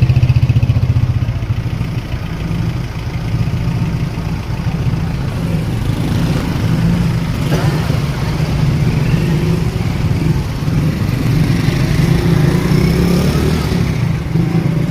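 Heavy vehicle engine running steadily with a low, even firing beat; it dips a little about two seconds in and then picks up again.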